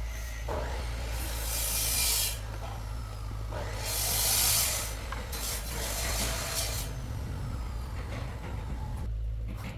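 Rasping, scraping strokes, about three long ones, over a steady low hum.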